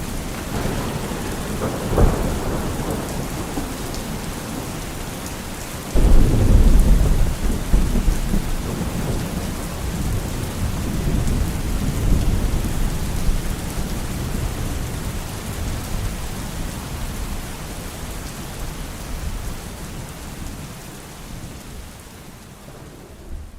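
Steady heavy rain through a thunderstorm. A sharp thunder crack comes about two seconds in. About six seconds in, a loud clap of thunder breaks into a long low rumble that rolls and slowly dies away, and the whole sound fades down near the end.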